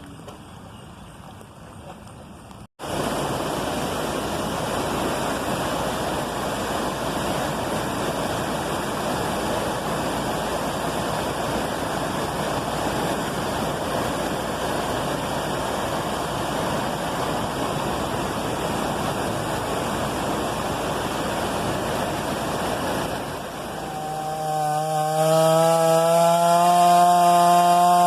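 Heavy cyclone rain pouring in a steady, even rush, starting abruptly about three seconds in after a quieter stretch. Near the end a steady engine drone comes in over it and becomes the loudest sound.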